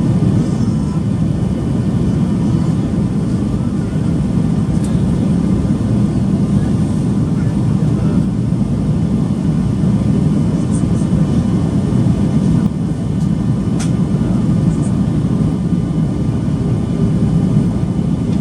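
Steady cabin noise inside a Boeing 737-800 in flight: an even, deep rumble of its CFM56 jet engines and airflow, with a few faint ticks.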